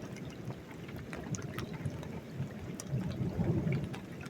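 Distant thunder rolling: a low, uneven rumble that swells about three seconds in, with faint scattered clicks above it.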